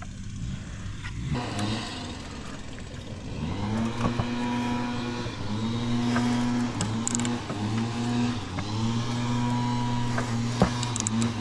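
Electric power tool motor running under heavy load, spinning up about three and a half seconds in and letting off briefly a few times, as it works a seized control arm bolt out. A few metallic clicks sound over it.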